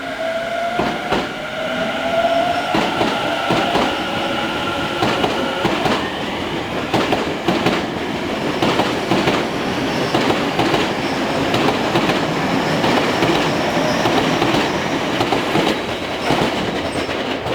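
Tobu electric train pulling away from a station: its motors give a whine that rises in pitch over the first few seconds as it accelerates, then the wheels clatter steadily over rail joints as the cars go by.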